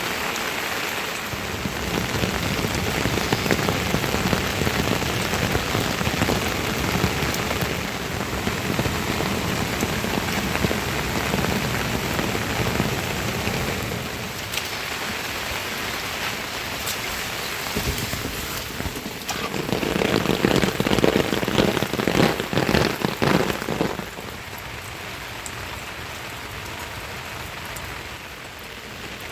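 Steady rain falling, with a louder, heavier spell of drops for a few seconds about two-thirds of the way through.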